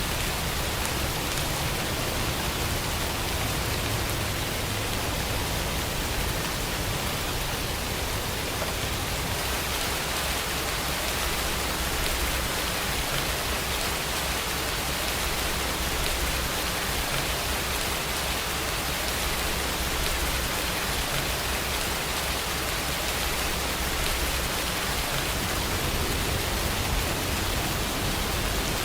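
Steady rain falling, an even hiss without breaks or thunderclaps.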